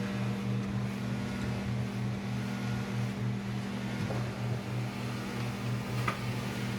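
A steady low motor hum with a slow, even pulsing, and a couple of faint light clicks partway through.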